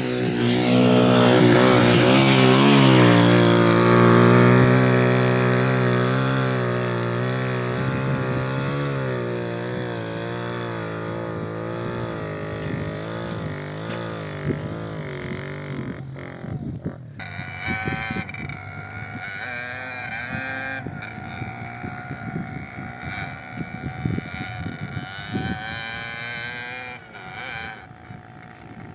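Motorcycle engine running on the road, its pitch wavering up and down with the throttle. It is loudest a few seconds in, then gradually fades.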